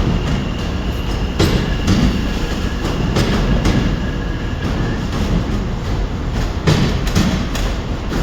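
A train moving through the station with a steady low rumble and a faint high whine, its wheels clicking irregularly over rail joints.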